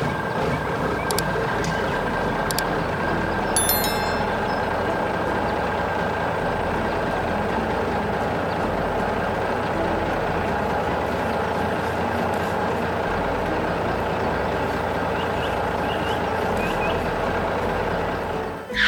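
Heavy construction vehicle engine running steadily, with a few short clicks in the first four seconds; it fades just before the end.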